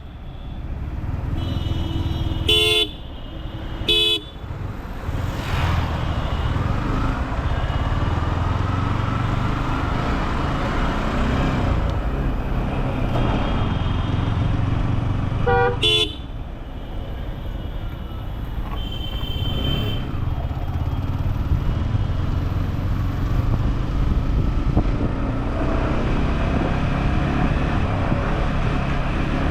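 Motorcycle riding through city traffic: steady engine and road noise. Short vehicle horn toots sound about three and four seconds in, and again around sixteen seconds.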